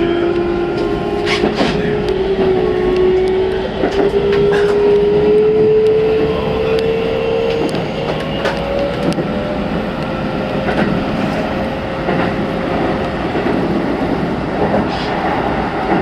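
Keikyu New 1000 series electric train pulling away, its traction-motor whine rising steadily in pitch for the first nine seconds or so. Rumbling running noise and scattered rail clicks lie under it.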